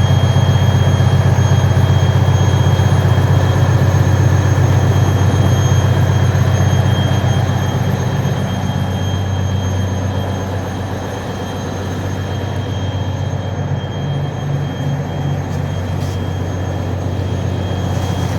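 Ferry engines running steadily in the engine room: a loud, continuous low hum with a few thin high-pitched whines over it, easing slightly about eleven seconds in.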